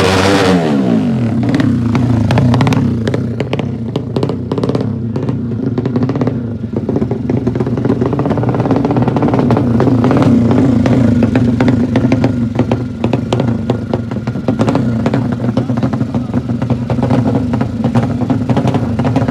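Motorcycle engines running loud and steady. One engine's pitch falls away right at the start, as if a bike is passing or easing off. Scattered clicks and rattles run through it.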